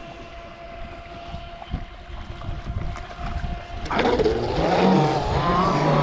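Radio-controlled boat motor whining, with wind rumbling on the microphone. About four seconds in the whine turns suddenly much louder and climbs in pitch, wavering as the boat runs at speed.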